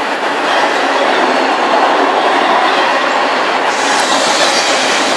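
Railroad cars at the tail of a long train rolling over a creek trestle: a steady, loud rush of steel wheels on rail. The high hiss brightens about three and a half seconds in.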